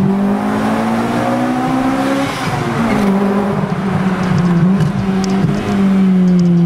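Car engine and exhaust under hard acceleration. The pitch climbs for about two seconds, drops at a gear change, holds steady, then begins to fall near the end as the car eases off.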